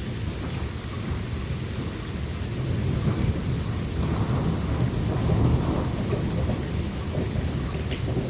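Thunderstorm: a low rumble of thunder over steady rain, the rumble swelling about halfway through.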